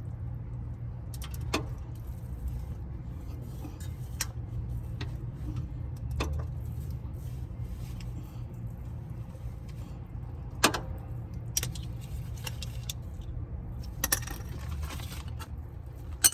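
Scattered metallic clinks and clicks, like tools and parts being handled during car maintenance, over a steady low hum. The sharpest clink comes about ten seconds in.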